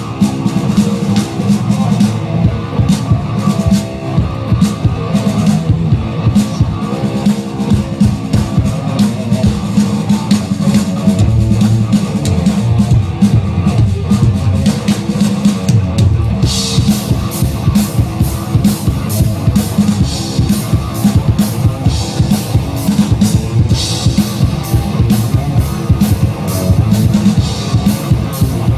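Live drum kit played in a rock-style jam, dense kick, snare and tom strokes under sustained notes from a second, pitched instrument. About halfway through, the cymbals come in louder and brighter.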